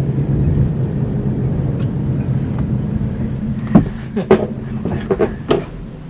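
A steady low motor hum, with a run of knocks and clicks over the second half.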